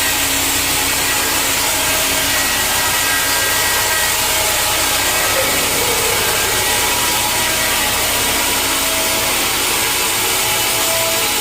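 Sawmill saw cutting steadily through a log, a continuous even noise without a break.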